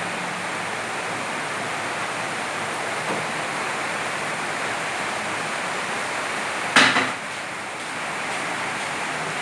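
Heavy rain falling steadily, a dense even hiss. About seven seconds in there is one sharp knock, the loudest sound here, and a fainter one near three seconds.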